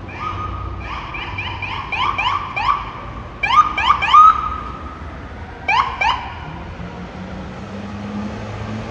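An emergency vehicle's electronic siren blipped in short, quick dipping chirps in three clusters, the loudest about four seconds in, over traffic noise. A low drone starts about two-thirds of the way through.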